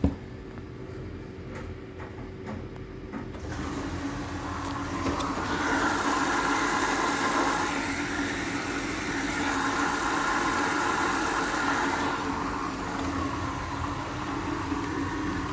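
Hoover H-Wash 500 washing machine running a service-mode test: a click, then a low hum, and from about three and a half seconds in a louder steady motor tone with a rushing sound that swells and then eases off near the end.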